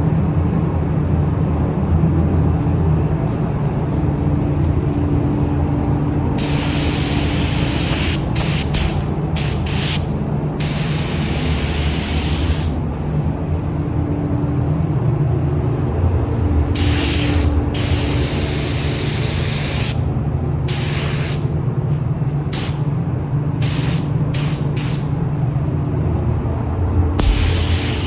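Automotive paint spray gun hissing in repeated trigger pulls, some long passes of a couple of seconds and several short blips, over a steady low hum. The spraying starts about a quarter of the way in.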